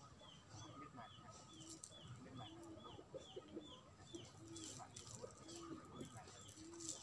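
Faint birds calling: a short, high, falling chirp repeated about twice a second, with a lower short note repeated about once a second.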